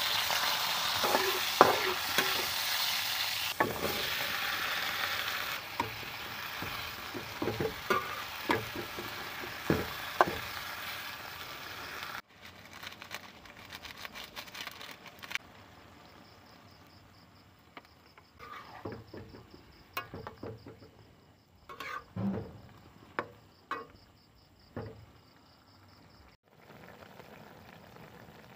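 Onion and garlic sizzling loudly in hot oil in a wok, with a spatula knocking and scraping against the pan. About twelve seconds in the sizzle cuts off sharply, and a much quieter stretch follows: sliced eggplant cooking in adobo sauce, with scattered spatula clicks against the wok.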